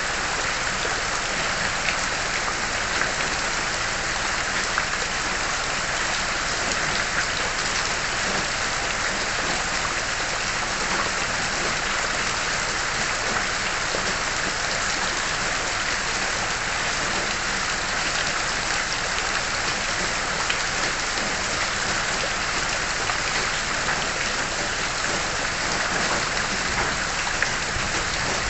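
Steady rainfall: an even hiss of rain on surfaces with scattered small drop ticks.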